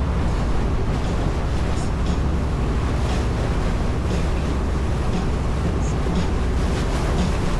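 A boat under way on the river: a steady low rumble and rushing water, with wind buffeting the microphone.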